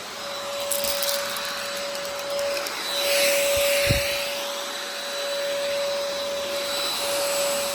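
Vactidy cordless stick vacuum running on a thick carpet: a steady motor whine over a rush of air, briefly louder about three seconds in.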